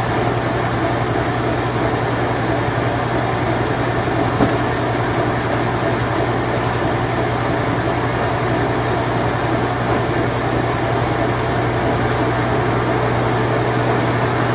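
Whirlpool Imperial Clean Touch washing machine running its spin cycle: a steady, unchanging mechanical hum with a constant low drone under a wash of whirring noise.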